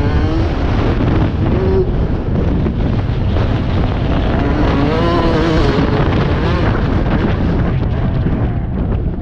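Motocross bike engine revving up and down, its pitch rising and falling as the throttle opens and closes, over a heavy rumble of wind on the microphone.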